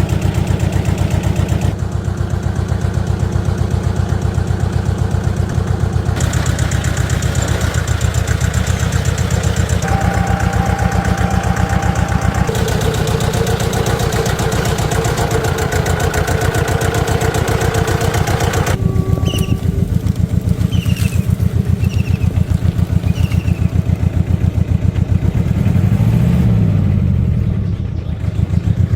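Restored ATV's engine running steadily with a rapid pulsing beat, the tone changing abruptly several times as the shots change. A few short high chirps are heard over it about two-thirds of the way through.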